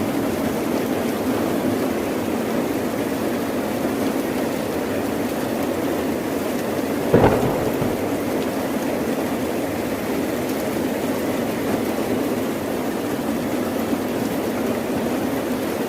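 Steady heavy rain, with one sharp crack of thunder about seven seconds in that fades quickly back into the rain.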